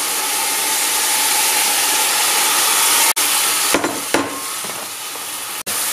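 Bean sprouts sizzling hard in a hot frying pan as consommé seasoning liquid is poured in and stirred through with chopsticks; the steady hiss eases a little about four seconds in.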